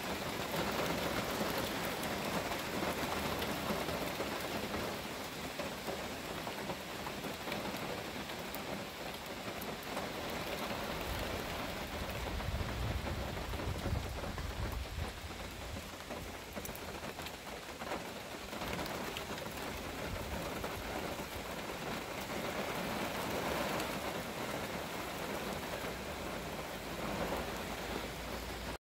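Heavy rain pouring down steadily, with a low rumble of thunder about halfway through.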